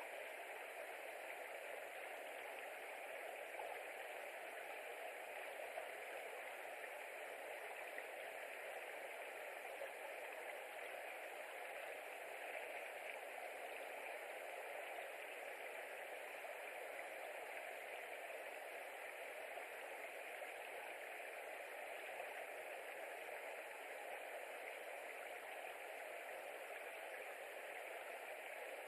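Steady, even hiss with no bird calls or distinct sounds.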